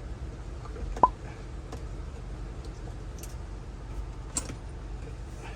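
Scattered small clicks and taps of hand work on panel fasteners while a truck's air-conditioning blower housing is opened, with one sharp, briefly ringing click about a second in and another a little past four seconds.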